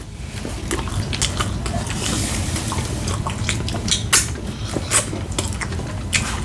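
Eating a chicken sandwich: irregular small clicks and smacks of chewing and handling food, over a steady low rumble.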